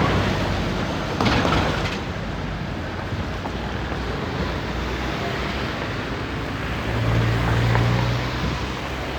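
Road traffic passing: cars going by, with a louder rush of a passing vehicle about a second in and a low engine hum near the end.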